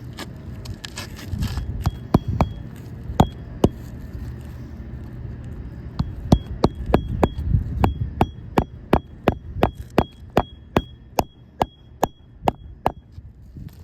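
Hammer driving roofing nails through asphalt shingles: a few separate blows, then a steady run of about three strikes a second, each with a short metallic ring.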